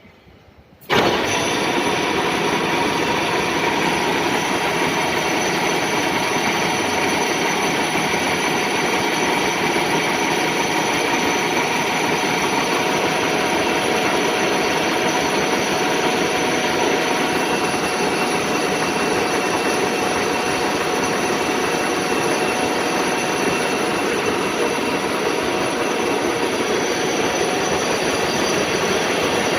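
WMW Heckert GFLV 250 x 2000 thread milling machine running: a steady mechanical noise with several constant whining tones, starting abruptly about a second in.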